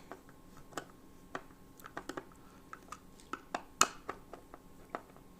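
Scattered light clicks and taps of small parts being handled and fixed while a lamp fitting is mounted onto an MDF board, the loudest a little under four seconds in.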